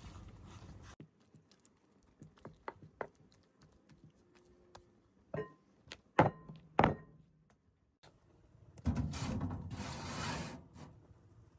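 Scattered light clicks, then three sharp knocks, the loudest two with a short metallic ring, followed a couple of seconds later by a rushing noise lasting about a second and a half.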